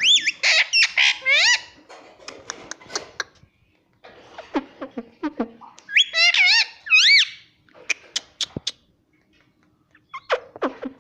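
Indian ringneck parrot squawking: loud calls that swoop up and down in pitch, in a burst at the start and again about six seconds in, with softer clicking chatter between.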